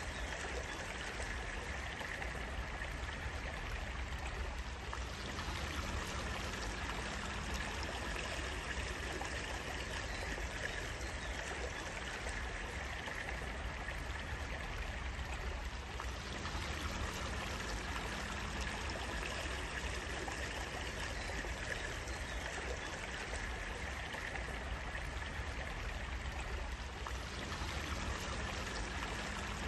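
A stream of water running steadily, an even, unbroken flow.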